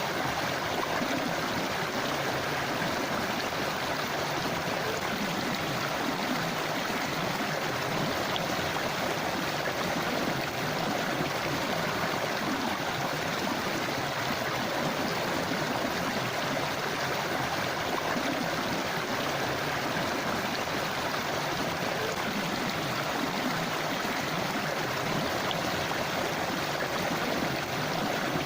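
A forest river or stream flowing: a steady rush of water with gurgling.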